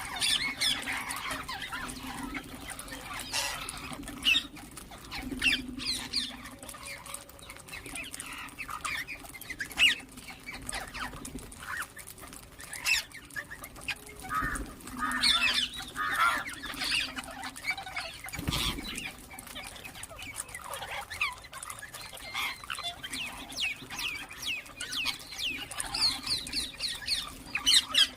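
A group of ringneck parakeets chirping and squawking in quick, overlapping calls, with a dull low thump about two-thirds of the way through.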